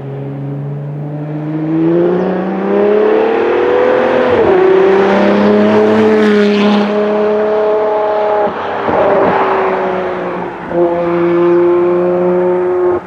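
Ferrari F40 LM's twin-turbocharged V8 pulling under load. Its pitch climbs for a few seconds, drops sharply at a gear change about four seconds in and holds steady. It dips again around eight to nine seconds in, then picks back up near the end.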